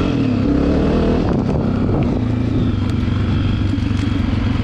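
Dirt bike engine running under way on a trail. The revs rise and fall at first, then settle to a steadier pitch about halfway through.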